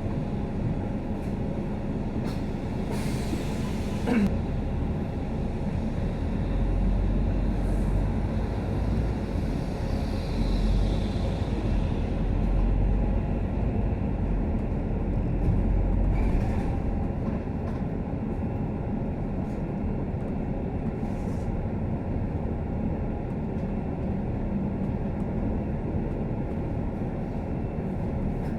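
Scania K310UD double-decker bus heard from inside the cabin while under way: steady engine and road rumble. A short hiss with a brief falling squeal comes about three to four seconds in, and the deep engine rumble swells through the middle before settling again.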